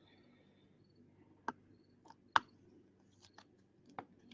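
A few sharp clicks and taps of trading cards and hard plastic card holders being handled and set down, the loudest about halfway through, over a faint steady room hum.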